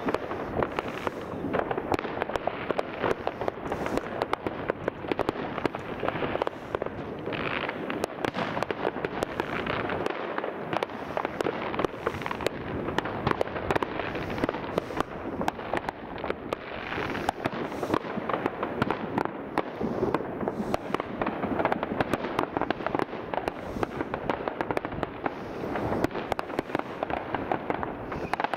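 Many fireworks and firecrackers going off at once: a dense, unbroken crackle of bangs.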